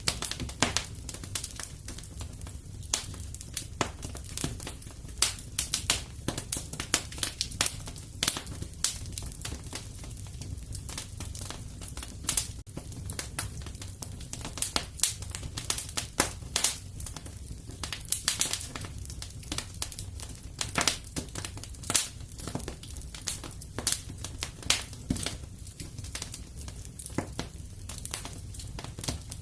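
Wood fire crackling: frequent sharp irregular pops and snaps over a steady low rumble of burning.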